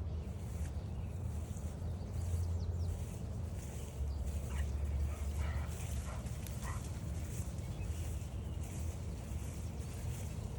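Footsteps swishing through mown trail grass, about two steps a second, over a low steady wind rumble. A few short faint calls come in about halfway through.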